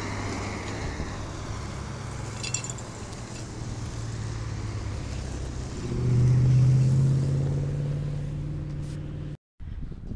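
Engine of a motor vehicle running nearby, a steady low hum that grows louder about six seconds in and then eases off.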